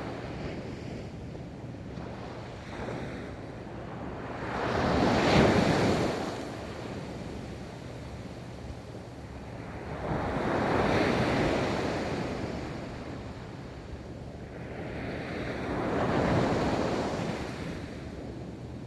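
Ocean waves breaking and washing up a beach, three swells of surf about five to six seconds apart over a steady low rumble, with some wind on the microphone.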